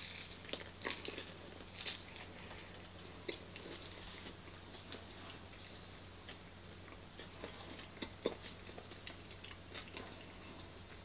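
A person chewing a mouthful of beef Wellington in puff pastry: a cluster of sharp mouth clicks and bites in the first two seconds, then scattered softer chewing clicks, over a faint steady low hum.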